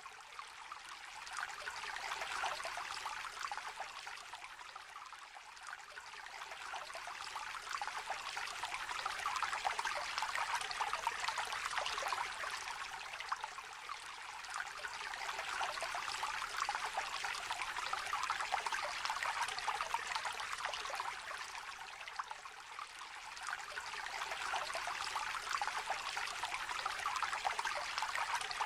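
Small river or brook trickling and babbling over stones, a continuous splashing, gurgling flow that swells and eases gently every several seconds.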